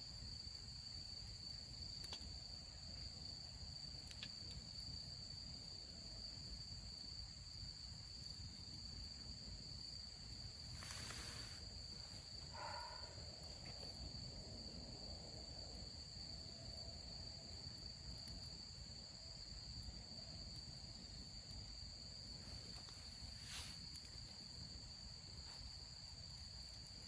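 Insects chirping steadily at a high pitch over a faint low background rumble, with a brief hiss about eleven seconds in.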